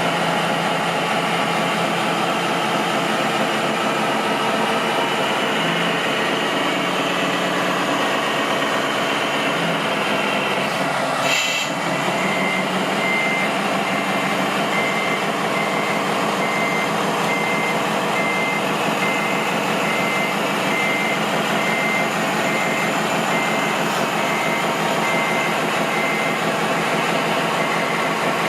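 A truck engine runs steadily, with a short knock about halfway through. After that a reversing alarm starts beeping, one even high beep about once a second.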